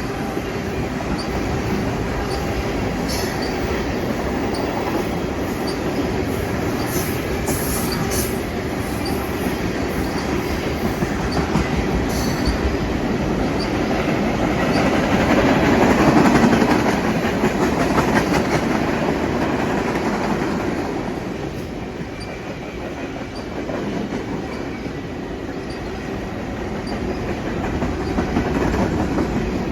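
Freight train cars rolling past at track side, the wheels clicking over the rail joints, with brief high squeals in the first half. The rolling noise swells to its loudest about halfway through, then eases.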